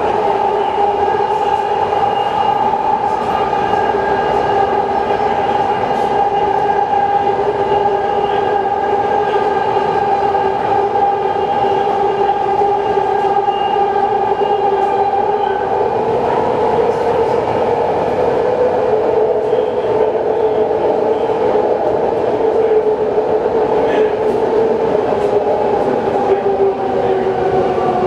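BART train running with a loud, steady whine of several held tones over the rail rumble, dipping slightly in pitch at the very end.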